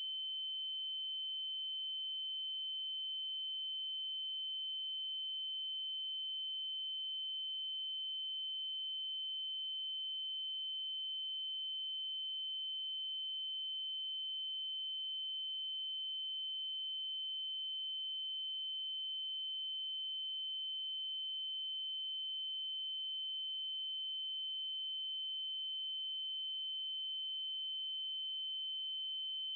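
Steady synthetic 3072 Hz triangle-wave test tone, a single constant high-pitched note that does not change. A faint click comes about every five seconds.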